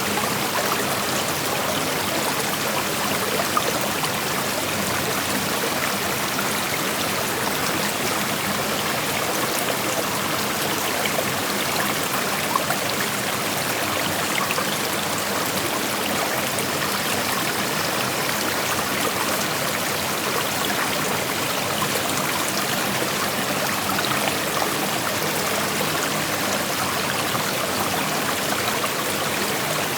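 Creek water flowing steadily over rocks, an even rushing with small splashes and trickles, unchanging in level.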